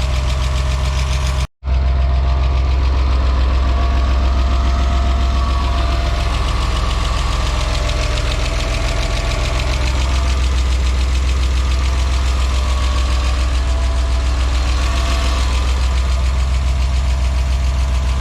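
BMW M50B20TU 2.0-litre inline-six idling steadily with a light knocking, just back running after sitting dry for two years. The sound cuts out briefly about a second and a half in.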